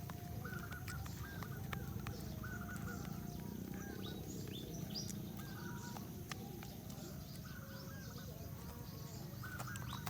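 Birds calling over and over in short, repeated notes, with a few sharp clicks and a low steady background rumble.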